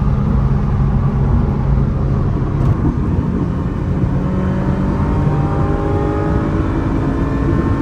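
Ferrari F355's mid-mounted 3.5-litre V8 heard from inside the open-top cabin, running steadily and then rising slowly in pitch from about three seconds in as the car accelerates.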